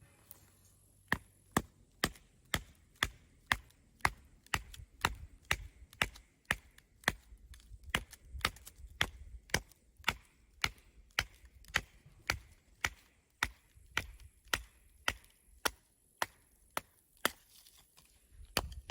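A steady series of sharp chopping strikes, about two a second, starting about a second in and going on without a break.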